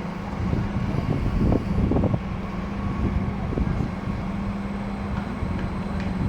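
Train in the station: a steady low electric hum over a rumble, with irregular low clunks, strongest between about half a second and two seconds in.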